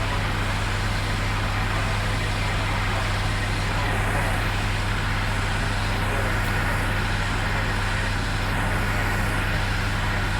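Vehicle engine idling steadily, an even low hum that does not change.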